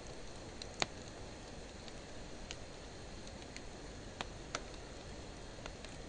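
Wood fire of driftwood and dry hardwood burning, with a steady low rush and sharp crackling pops: the loudest comes about a second in, and a handful more follow scattered through. The audio is slowed to half speed.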